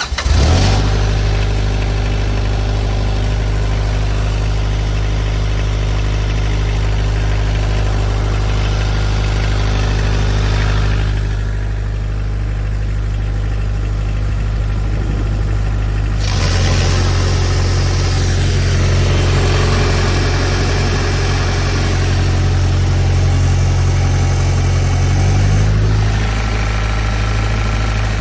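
The 56-horsepower diesel engine of a high-pressure washer starts up and runs steadily, with a hiss over the engine that fades for a few seconds near the middle and then returns.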